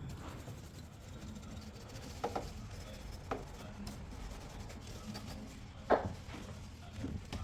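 Rubbing and scraping with a few short, sharp knocks spread through, the loudest about six seconds in.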